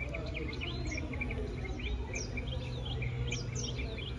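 Small birds chirping, many short quick chirps overlapping one another, over a steady low hum.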